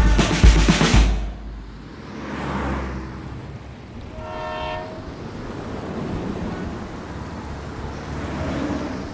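Beat-driven music stops about a second in. Steady outdoor rumble and hiss follow, and near the middle a single short horn blast sounds.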